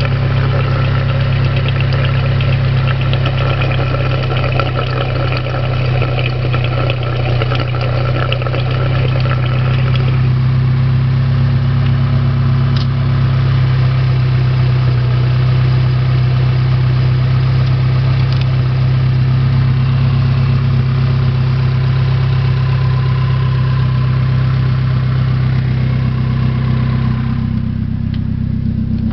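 Mitsubishi 4G93 1.8-litre inline-four engine idling steadily. Its higher-pitched mechanical noise drops away about ten seconds in, and the tone shifts slightly near the end.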